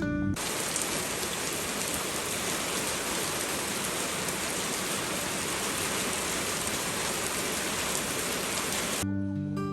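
Steady rain falling, an even hiss with no pattern, starting just after the start and cutting off about a second before the end as music returns.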